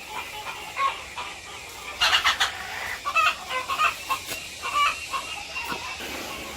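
Chickens clucking, a flock of hens making many short overlapping calls.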